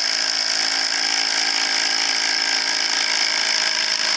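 DeWalt 12-volt impact driver hammering a self-drilling tek screw in, running steadily without a break.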